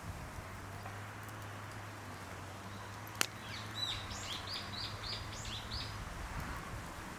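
A songbird singing a series of short, repeated high notes, about three a second, starting about three seconds in, just after a single sharp click. A steady low hum sounds underneath and stops about six seconds in.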